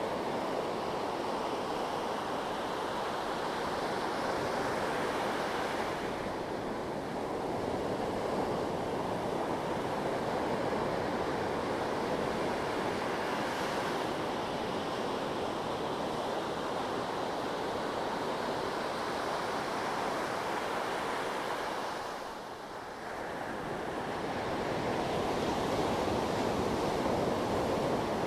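Sea waves breaking and washing on the shore in a continuous rush that swells and eases, dipping briefly near the end.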